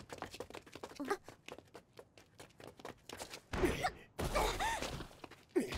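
A quick run of light clicks and footsteps, then a struggle with gasps and short strained cries as someone is seized.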